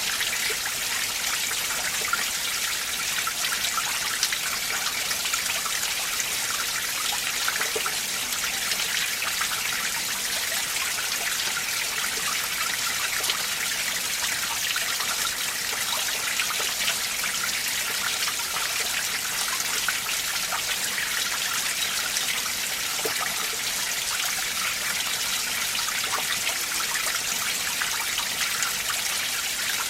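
Winter mountain valley stream flowing steadily, a continuous trickling and splashing of water with many small drips and plinks.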